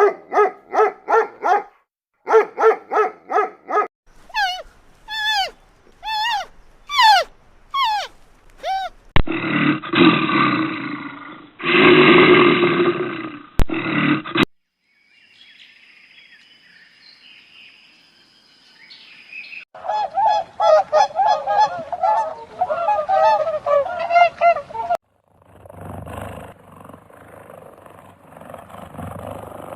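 A run of different animal calls, cut one after another. It opens with quick repeated calls, then falling gliding calls, a loud rough stretch, and later a dense chorus of honking calls.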